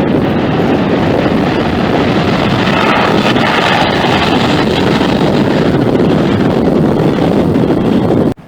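Jet airliner engine noise, a loud, steady rushing as an aircraft passes close by, with wind buffeting the microphone. It cuts off suddenly just before the end.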